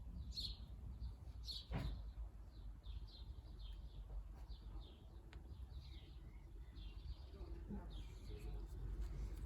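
Birds chirping faintly, with many short calls throughout over a low, steady rumble; a single knock sounds about two seconds in.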